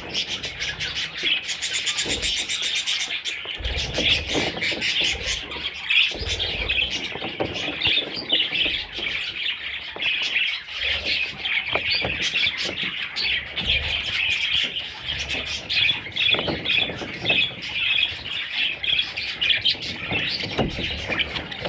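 Budgerigars chirping and chattering without a break, many short calls overlapping.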